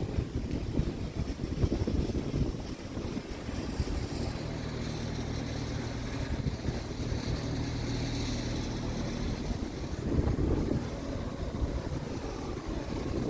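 Scania P truck's diesel engine running steadily at a low, even pitch, with wind buffeting the microphone.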